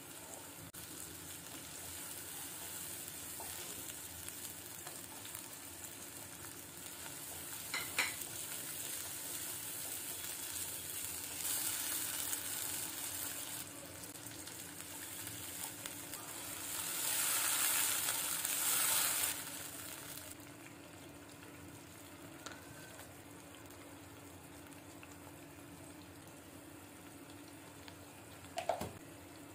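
Sliced onions, and later tomato pieces, frying in hot oil in a kadai: a steady sizzle with stirring, swelling louder twice for a couple of seconds around the middle. A sharp click comes about eight seconds in and another near the end.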